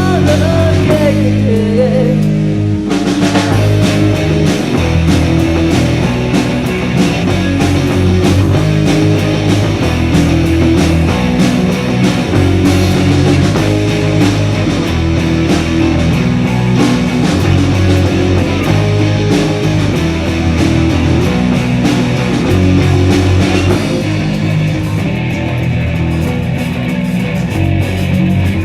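Rock band music with electric guitar and drum kit in a largely instrumental stretch. A sung line trails off in the first two seconds, and the full band comes in hard about three seconds in.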